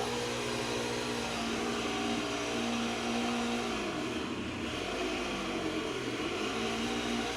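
Stihl 026 two-stroke chainsaw running steadily at high speed, its pitch sagging and then recovering about four seconds in.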